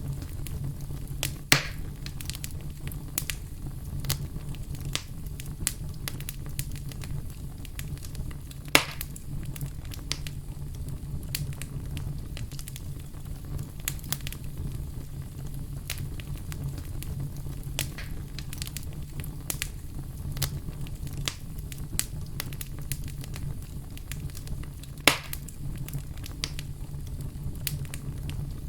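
Wood fire crackling, with a steady low rumble of flames under constant small snaps and three louder pops about a second and a half in, near nine seconds and near twenty-five seconds.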